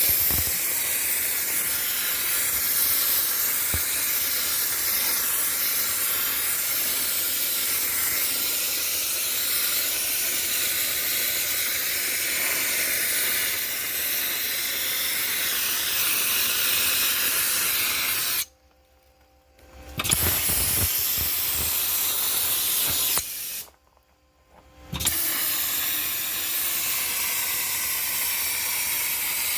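Dry ice blasting gun firing a steady, high hiss of compressed air and dry ice. The hiss cuts off twice, for a second or two each time, in the second half.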